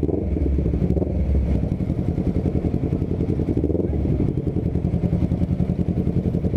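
Honda CBR250RR parallel-twin engine running steadily through an aftermarket R9 GP Series full-system exhaust, with a fast, even pulsing and no revving.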